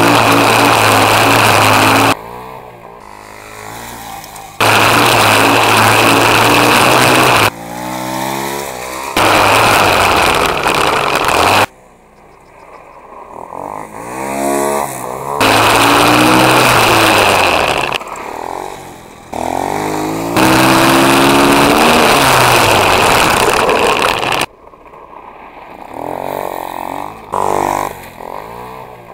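Pit bike engines running hard at high revs in loud stretches of a few seconds that cut off abruptly. Between them the revs fall and climb again as the throttle is closed and reopened.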